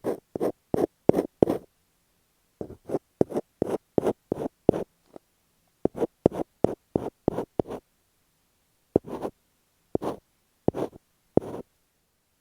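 Masking tape stuck on an earphone microphone being scratched in short, close-up strokes, about three a second in runs with brief pauses, slowing to single strokes near the end.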